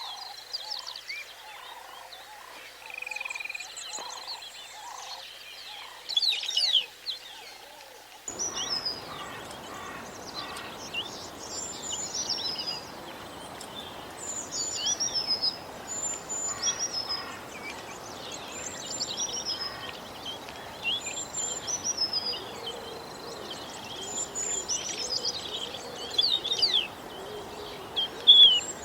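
Wild birdsong: several birds chirping and whistling in short, quick, mostly falling notes. About eight seconds in, it switches abruptly to another recording with a steady hiss of background noise behind the chirps.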